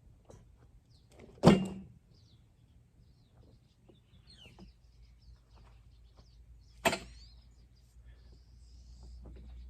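Two loud knocks or thuds about five seconds apart, each with a brief ringing tail, with faint high chirps between them.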